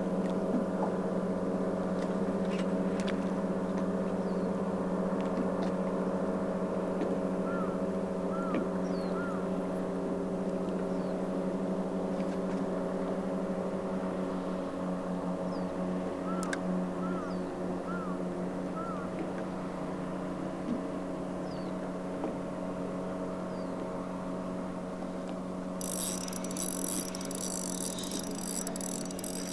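Bass boat outboard motor running at a steady, even speed. A fast high-pitched ticking joins near the end.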